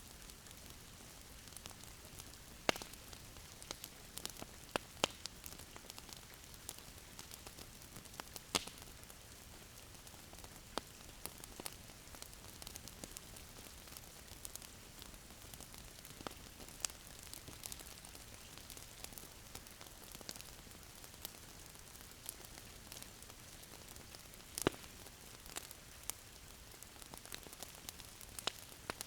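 Faint crackling wood fire: a steady low hiss with irregular sharp pops and snaps scattered throughout.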